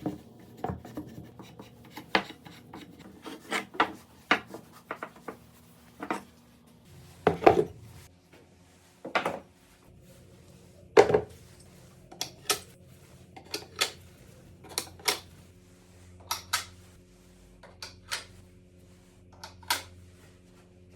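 Hard objects set down and rubbed against wood, making about twenty short clacks and knocks at irregular intervals, roughly one a second, over a faint steady hum: tools and parts being placed into a wooden tool holder.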